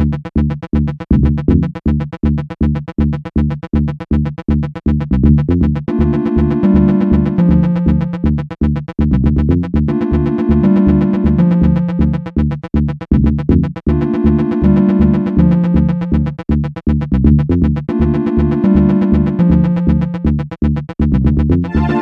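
Electronic music played on Sonic Pi's built-in synths: a fast, evenly repeating pattern of low synth notes. About six seconds in, a higher keyboard-like melody joins and repeats in phrases of about four seconds.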